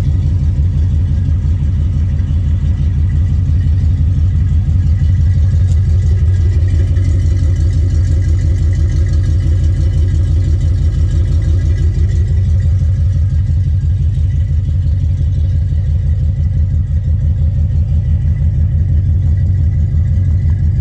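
A 1971 Chevrolet C10 pickup's engine idling steadily and evenly during its cold-start warm-up.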